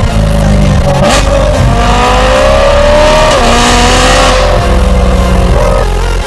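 BMW E92 M3's naturally aspirated V8 exhaust under acceleration, its pitch climbing steadily, with a short drop in pitch about halfway through, as at a gear change.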